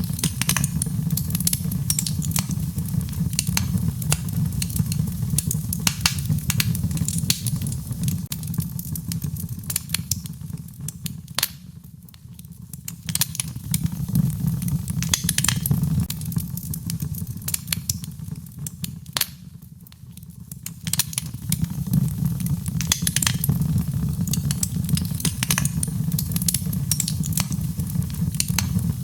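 Wood fire in a fireplace crackling and popping, with many sharp snaps over a steady low sound of burning. The low sound fades down twice, about a third and two-thirds of the way through, and then builds again.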